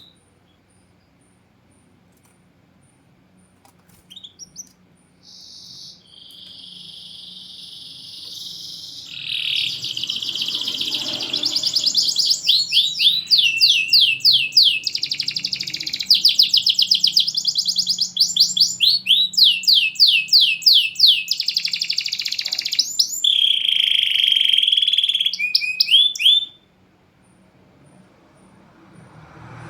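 Domestic canary singing a long song of fast rolling trills and held notes, with short gaps between phrases. It starts with a few short chirps about four seconds in and stops abruptly a few seconds before the end.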